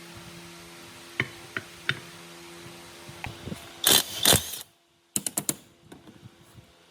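Metal mechanism parts clicking and clacking as they are worked by hand, over a faint steady hum. Two louder noisy bursts come about four seconds in, and a quick run of clicks follows a brief cut-out.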